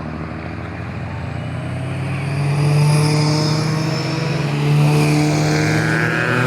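A vehicle's engine held at high revs as it launches, a steady engine note that swells louder about two and a half seconds in and stays up.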